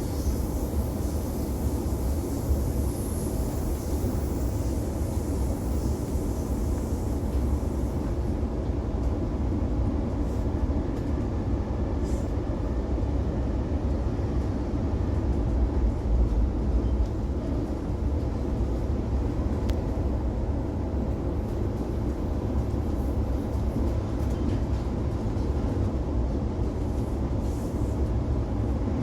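Interior of a moving Oscar H set electric train carriage: a steady low rumble of wheels on rail and running gear. A high hiss over it dies away about eight seconds in.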